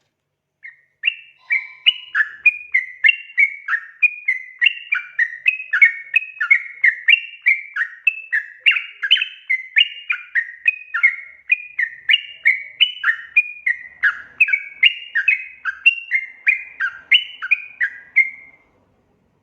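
Yellow-vented bulbul (trucukan) singing: a long, unbroken run of quick warbling notes, several a second, in a bubbling chatter that starts about a second in and stops shortly before the end.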